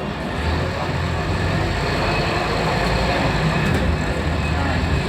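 Scania Enviro300 single-deck bus running: steady engine and road noise, the low engine note growing stronger about half a second in.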